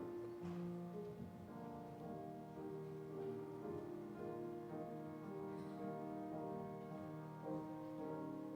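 Live piano music in a slow song, notes held and changing every second or so.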